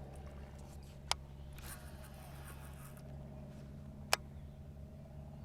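Faint steady low hum, with two sharp clicks about three seconds apart and a brief light scraping between them.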